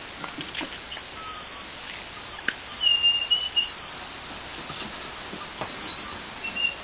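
Shrill whistle made from an old Lego piece, blown in a series of blasts of half a second to two seconds, most of them very high, one a little lower about three seconds in.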